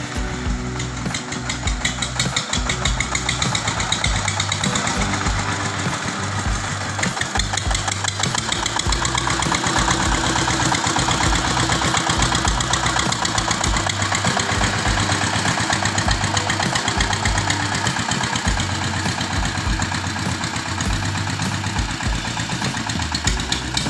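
Two-stroke chainsaw engine running steadily with a fast buzzing rattle, getting a little louder for several seconds in the middle.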